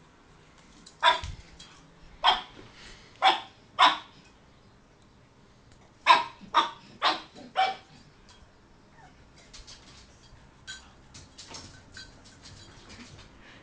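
A dog barking in two bursts of four short, sharp barks, the second burst quicker, barking at its own reflection in a mirror; faint light ticks follow near the end.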